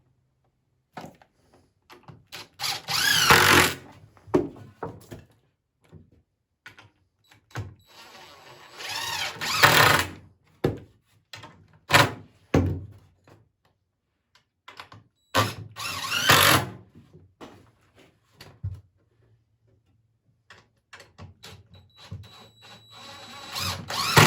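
Power drill driving screws into poplar wood in four runs of a second or two each, the motor's whine climbing in pitch as each run starts. Short knocks of wood being handled come in between.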